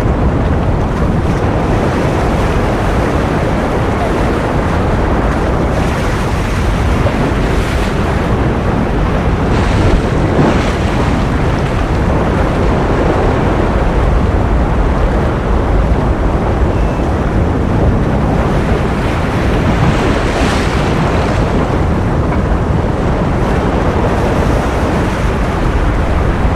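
Ocean surf as a steady, loud rushing wash, heaviest in the low end, swelling briefly brighter about ten and twenty seconds in.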